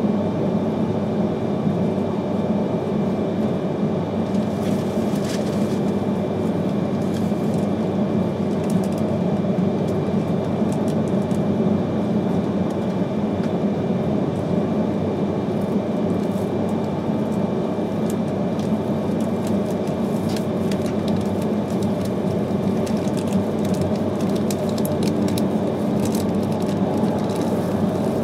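Interior running noise of an E3-series Akita Shinkansen Komachi train under way: a steady low rumble of wheels on rail, with scattered faint clicks.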